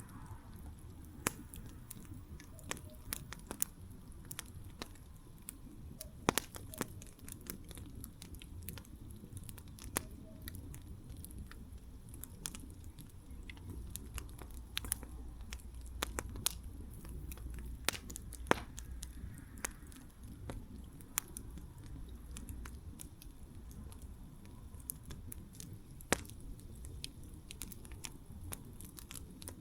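Wood campfire crackling: irregular sharp pops and snaps, a few of them much louder than the rest, over a low steady rumble.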